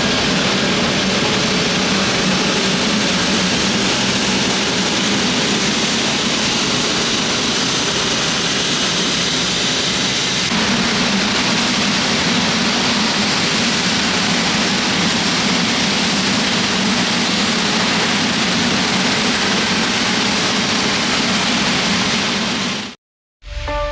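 Jet airliner engines running close by: a loud, steady roar with a low hum underneath. It cuts off suddenly near the end, and music starts.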